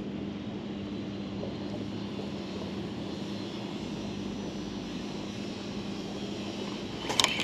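A boat motor running with a steady low hum, over a hiss of wind and water. There is a brief rattle of clicks near the end.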